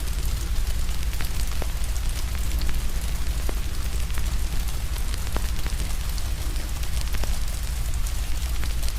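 Crackling wood fire mixed with steady rain: scattered sharp pops and snaps over an even hiss and a deep steady rumble.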